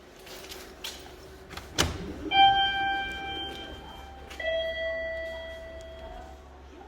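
Electronic two-tone chime: a higher tone held about two seconds, then a lower one held about two seconds, as in a ding-dong. A single sharp knock comes just before it.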